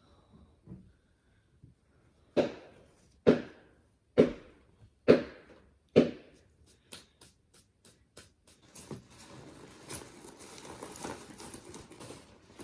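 Five heavy knocks about a second apart, then a quick run of lighter clicks and a rustling clatter.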